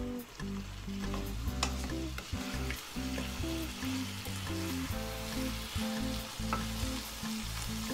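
Chicken and diced vegetables sizzling as they fry in a nonstick pan, stirred with a wooden spoon, with a steady hiss and scattered scraping clicks of the spoon on the pan.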